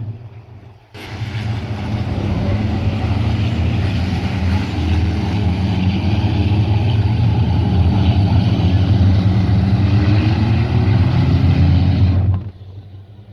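Copa Truck racing trucks' diesel engines running hard: a heavy, steady low drone whose pitch slowly rises and falls. It starts abruptly about a second in and cuts off about a second before the end.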